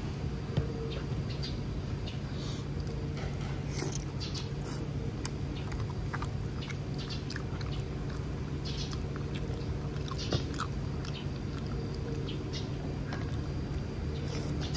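Close-up wet chewing and lip-smacking of a mouthful of fatty minced-pork sausage, heard as irregular small clicks and smacks, with a bite into the sausage near the end. A steady low hum runs underneath.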